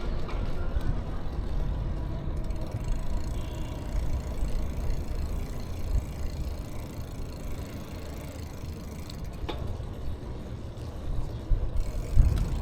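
Steady low rumble of wind and road noise while riding a bicycle along a street.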